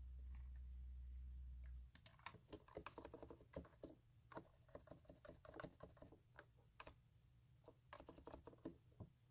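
Computer keyboard typing: quick, irregular key clicks that begin about two seconds in, after a low hum cuts off.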